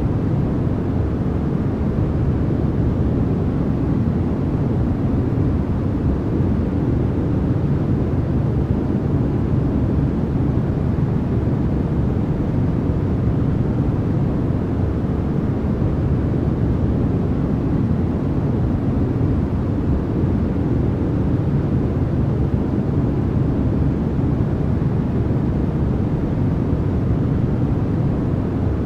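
Steady generated 'white noise' for sleep, an even rushing hiss with no changes, heavier in the deep end than the high end.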